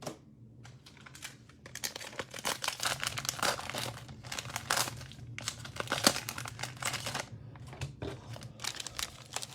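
Cellophane wrapper of a football trading-card cello pack crinkling and tearing as it is handled and opened, in irregular crackly bursts.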